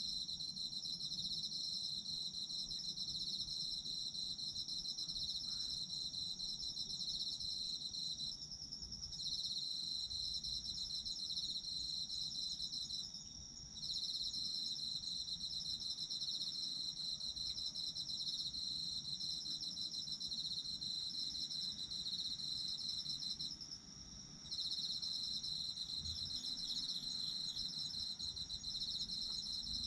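Autumn crickets singing: a continuous high, pulsing trill that breaks off briefly three times and starts again.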